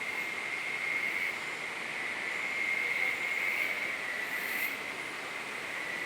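Steady rush of river water with a thin, steady high-pitched drone over it.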